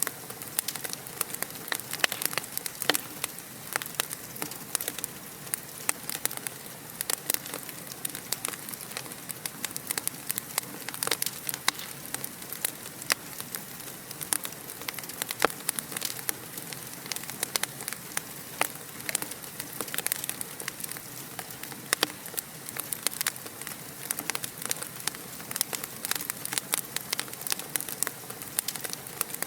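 Wood fire crackling and popping: a steady hiss with many sharp, irregular pops.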